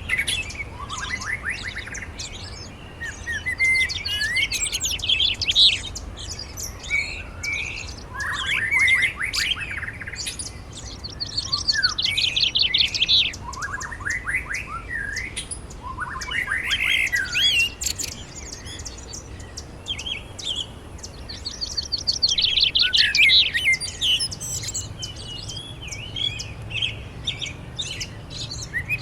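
Songbirds singing and chirping, with repeated fast trilled phrases, several of them sweeping upward in pitch, and quick runs of high chirps, over a faint steady low rumble.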